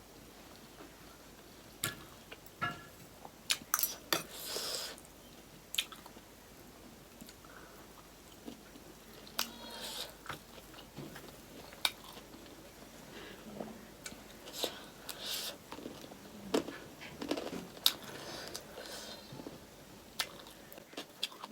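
Close-up chewing and crunching of chatpate, a spicy puffed-rice snack: irregular sharp crunches and mouth clicks with short pauses between bites.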